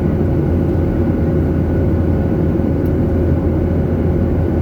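Steady drone inside an airliner's cabin in flight: jet engine noise and rushing air, with a faint steady hum.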